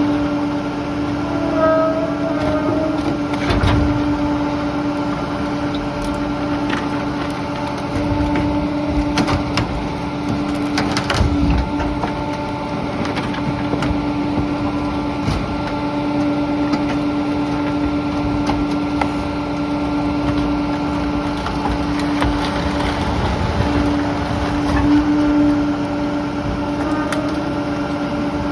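Refuse collection truck running with a steady mechanical hum, with scattered knocks and clunks.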